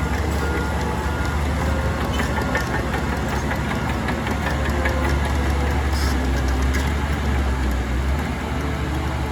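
Heavy diesel earthmoving machinery running steadily, a deep engine drone with scattered metallic clanks. A few short high beeps come in the first second.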